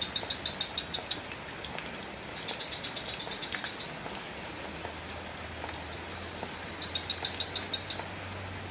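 Steady rain falling, with a rapid high chirping that comes in three short trains of about a second each, and a low steady hum underneath.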